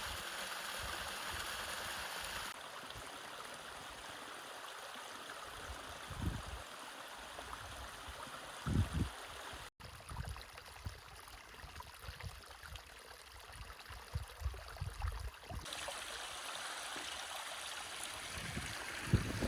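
Stream water running, a steady rushing that changes abruptly in level a few times where shots are joined, with scattered low bumps.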